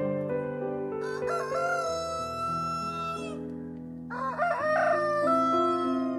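Rooster crowing twice, each a long call that rises and then holds its pitch, over soft background music with sustained keyboard notes.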